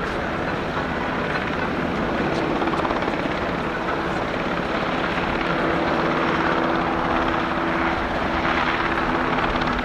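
JASDF UH-60J rescue helicopter in flight, its rotor and twin turbine engines running steadily, a continuous thrum with a few steady low tones.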